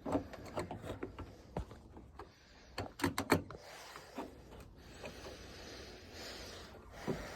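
Scattered metallic clicks and knocks of a pickup truck's door latch parts and hand tools being worked inside the door panel, with a quick group of sharp clicks about three seconds in, then a faint steady noise.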